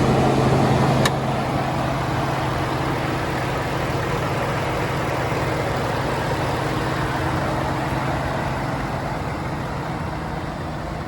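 2018 Ford F-150's 5.0-litre V8 idling steadily. A sharp click comes about a second in, and after it the idle is quieter.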